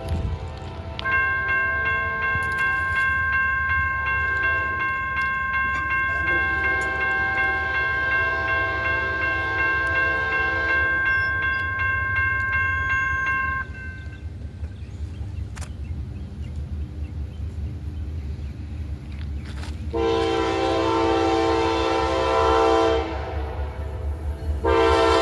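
Diesel freight locomotive sounding its horn in a long blast, then after a pause two more blasts near the end, over the steady low rumble of the train.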